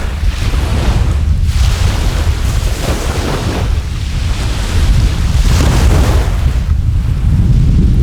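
Strong wind buffeting the microphone with a heavy, constant low rumble, over seaside surf washing in noisy swells that rise and fall every second or two.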